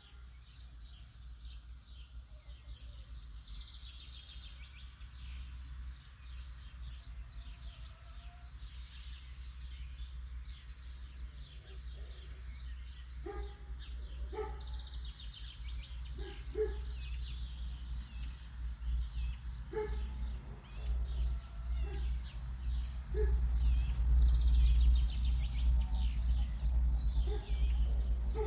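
Many small birds chirping in a dense chorus, with short lower-pitched calls every second or two from about twelve seconds in. A steady low rumble lies underneath and grows louder toward the end.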